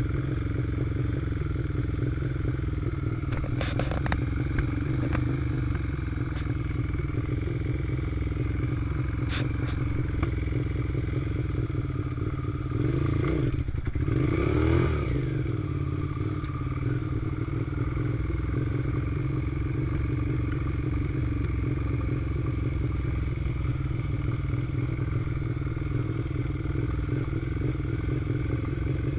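Suzuki SV650's V-twin engine running steadily while riding slowly, with a swell in the engine note about halfway through and a few sharp clicks.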